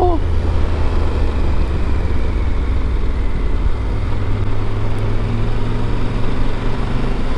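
Motorcycle riding at a steady speed: a steady low engine drone under an even rush of wind and road noise.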